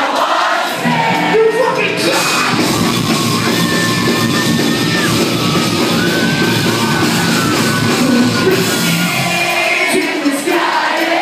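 A live post-hardcore rock band plays loud, with a male singer's melodic vocal over guitars, bass and drums, heard through an iPhone's microphone. The full band comes in about a second in and drops back shortly before the end, leaving crowd voices.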